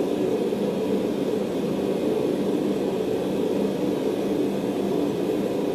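Blacksmith's forge running steadily while the steel heats.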